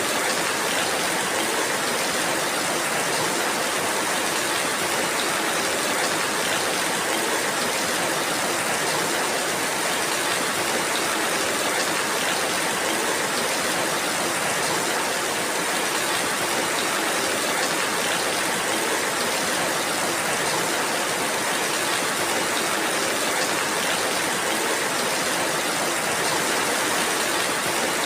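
Steady rainfall, an even dense hiss with no single drops or breaks standing out.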